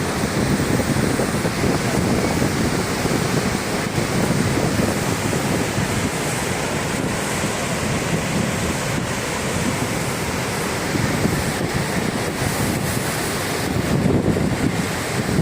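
Steady rush of water pouring over Niagara Falls, with wind buffeting the microphone.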